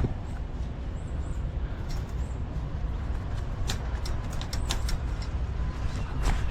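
Steady low rumble, with a run of sharp metallic clicks and rattles in the last few seconds as a wire live trap holding a possum is worked open.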